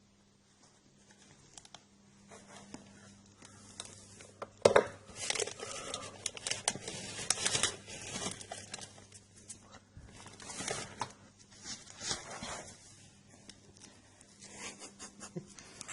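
Irregular rustling and crinkling, like material such as paper or plastic being handled and crumpled. It starts faintly and grows loud about a third of the way in, with a sharp crack at its onset, then comes and goes in spells.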